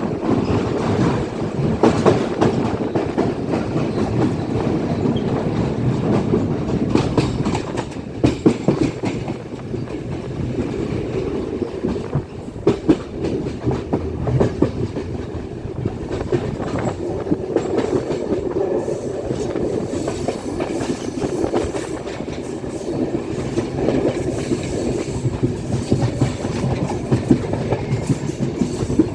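A moving train's wheels clattering over the rail joints, with the steady rumble of the running carriages and frequent sharp knocks.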